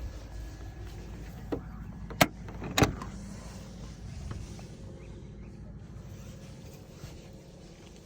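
Two sharp clicks or knocks about half a second apart, with a fainter one just before, over a steady low rumble.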